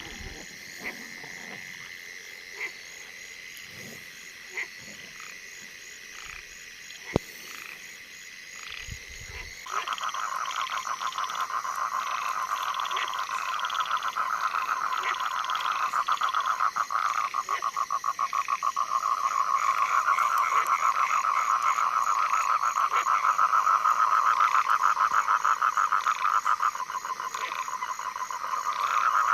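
Small frogs calling at night. At first there is a faint steady high call with a few scattered clicks. About ten seconds in, a loud, fast-pulsing frog call starts up and keeps going, easing off briefly near the end.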